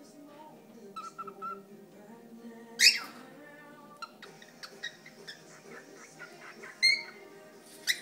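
Cockatiel whistling and chirping in short bursts, with a loud sharp rising call about three seconds in and two more loud whistles near the end.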